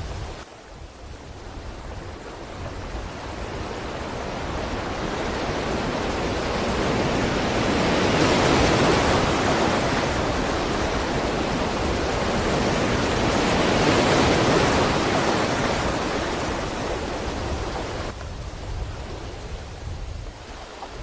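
Ocean waves breaking and washing up the shore, a rushing noise that swells slowly to two crests near the middle and falls away near the end.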